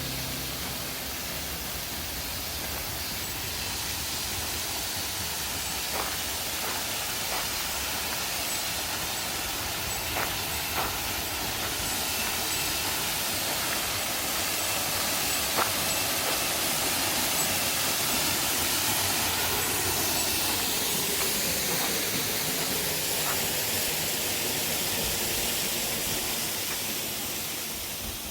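Steady rush of a waterfall: an even hiss of falling water, with a few faint clicks about six, ten and fifteen seconds in.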